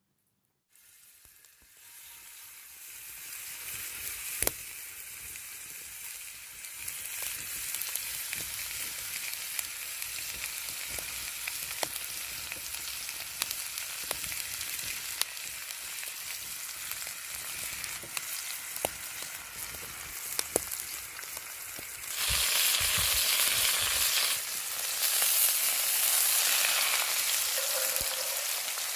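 Steak frying in a hot pan: a sizzle starts about a second in and builds, then runs steadily with scattered sharp pops, and grows louder for the last several seconds.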